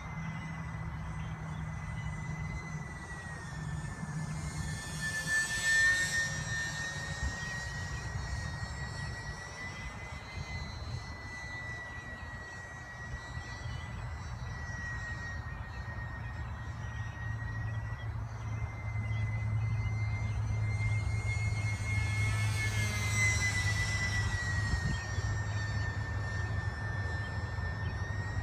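Radio-controlled twin-engine Aero Commander model airplane in flight: a steady high motor-and-propeller whine that wavers in pitch, swelling louder as the plane passes close about five seconds in and again about twenty-three seconds in.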